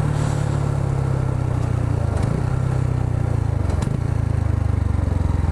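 Yamaha R125's 125 cc single-cylinder engine running under way, its steady note briefly dipping twice, about two and four seconds in, over a steady hiss.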